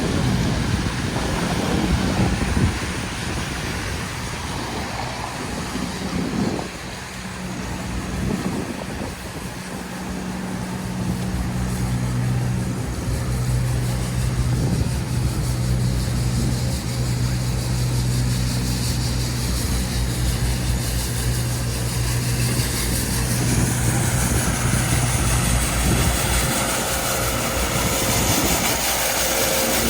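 City street traffic: motor vehicles running, with one engine's steady low hum standing out for about ten seconds in the middle.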